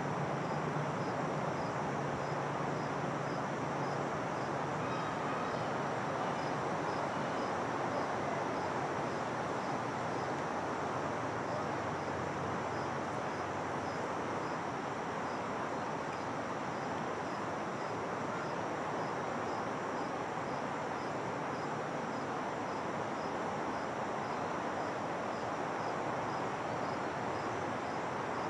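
Insects chirping in a steady, evenly spaced pulse over a constant rushing background noise, with a low hum in the first few seconds.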